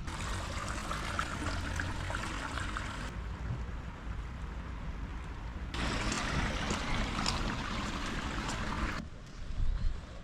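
Steady rain falling, a fine patter of drops over a hiss of water. The sound shifts abruptly in brightness and loudness a few times, and a few low thumps come near the end.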